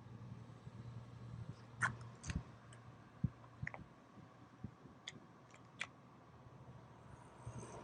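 Faint scattered clicks and light taps, about a dozen irregular ones, over a low steady hum.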